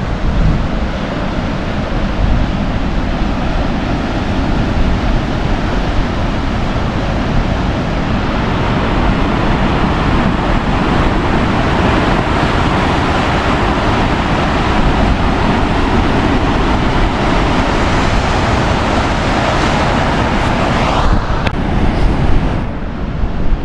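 Wind buffeting the microphone over the steady wash of ocean surf, a loud, continuous rush with heavy low rumble that eases off suddenly near the end.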